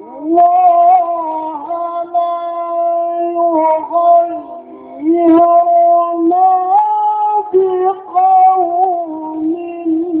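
A male Quran reciter chanting in the ornate mujawwad style, holding long, high melismatic notes that bend and turn in pitch, with a few short breaks for breath.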